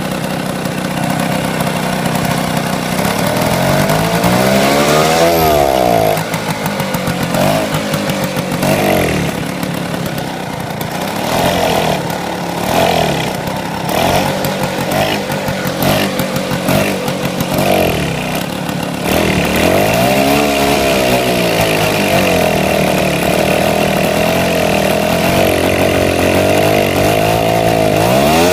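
Vespa P200 scooter's single-cylinder two-stroke engine running and being revved up and down. In the middle it surges in short repeated bursts about once a second, then settles to a steadier run, with a rev rise and fall near the end.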